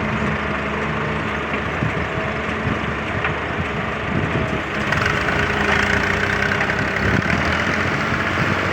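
Tractor engine running steadily, growing louder about five seconds in.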